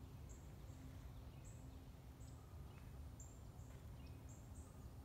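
Faint, high-pitched bird chirps, short notes repeating about twice a second, over a low steady rumble on the microphone.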